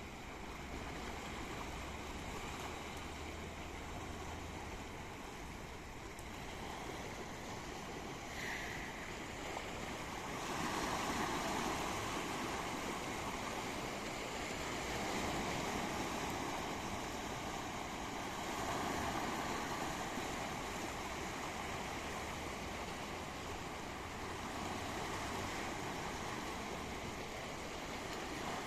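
Sea waves breaking and washing ashore, the surf swelling louder every few seconds.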